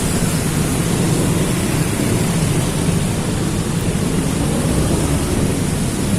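Heavy tropical rain pouring steadily: a dense, even hiss.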